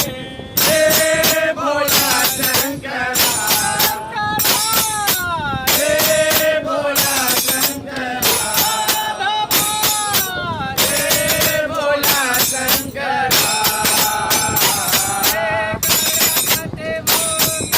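Men singing a Hindu devotional bhajan together, with jingling hand percussion keeping a steady beat.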